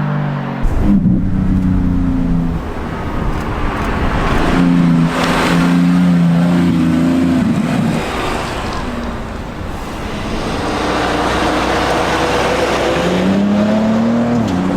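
Supercar engine revving and accelerating hard. The engine note changes abruptly about a second in and again about halfway through, and climbs in pitch near the end.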